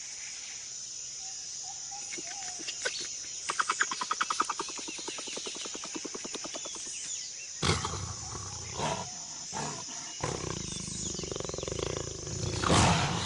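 Jaguar growling and snarling several times, the loudest near the end, over a steady high insect drone. A rapid chattering series of about a dozen pulses a second comes about four seconds in.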